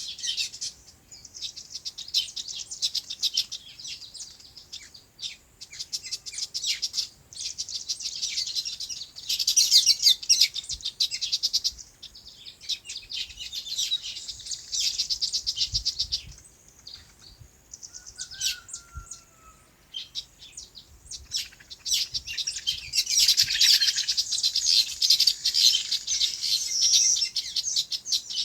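Many small birds chirping at once, dense fast twittering in runs with a short lull about two-thirds of the way through.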